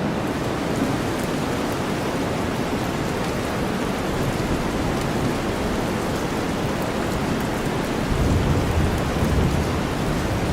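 Steady heavy rain over a deep, even bed of white noise, with fine drop ticks in the hiss. A low rumble like distant thunder swells about eight seconds in.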